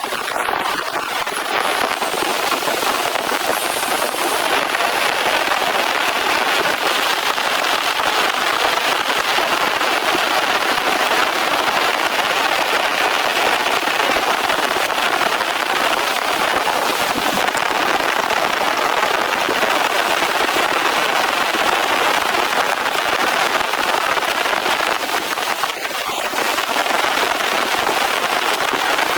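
Heavy rain falling steadily, a dense, even hiss of drops, easing briefly once near the end.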